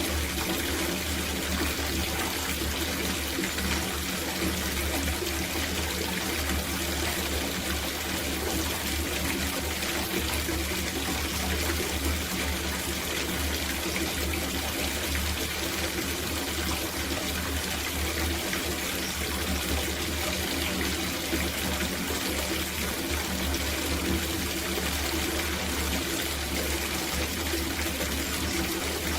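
Water running steadily from a tap into a copper bathtub as it fills.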